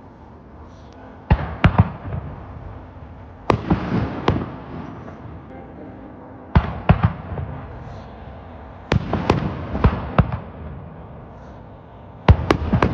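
Aerial fireworks bursting during a finale: five volleys of two to four sharp bangs each, about every two and a half to three seconds, each trailing off in a rumbling echo.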